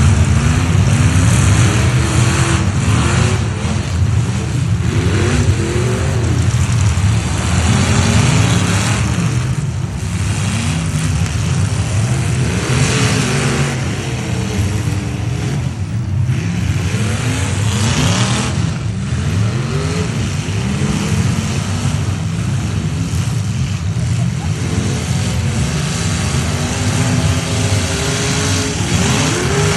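Several demolition derby trucks' engines running hard together, revving up and down again and again.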